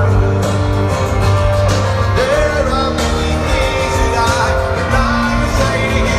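Rock band playing live with singing, heard from the audience: a steady bass line under guitars, drums and a sung melody.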